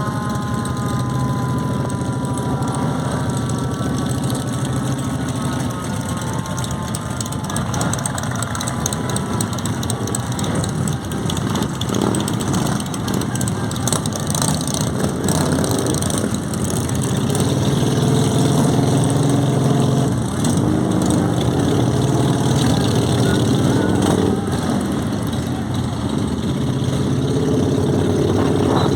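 Motorcycle engines running and idling with a steady low hum. In the first few seconds a higher engine note falls away in pitch.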